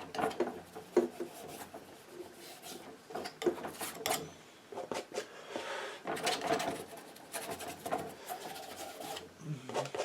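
Palette knife scraping and spreading paint in short, irregular strokes, with a few light taps of the blade.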